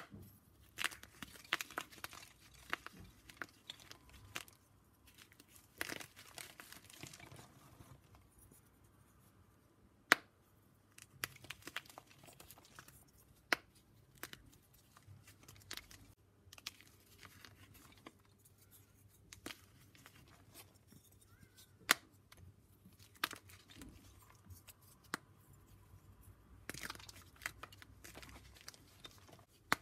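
Blocks of gym chalk being shaved and crumbled by hand close to the microphone: irregular crunchy crumbling and scraping, with a few sharp snaps as pieces break off.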